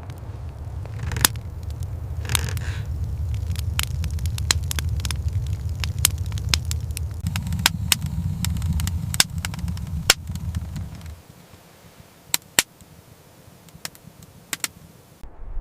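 Wood fire crackling with sharp, irregular pops, over a low rumble that stops about two-thirds of the way through.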